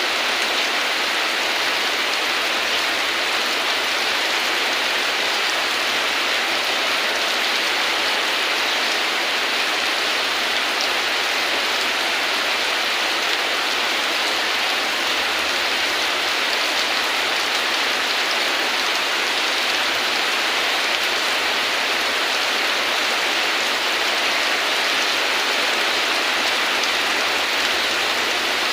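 Heavy, steady rain pouring down and pattering on surfaces, an even hiss that neither builds nor fades.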